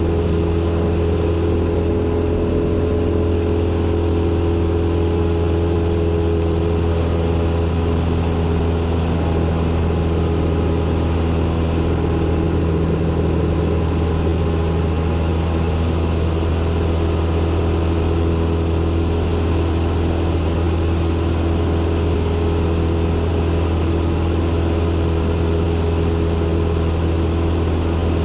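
Cessna 172N's four-cylinder Lycoming engine and propeller droning steadily, heard inside the cockpit in level flight.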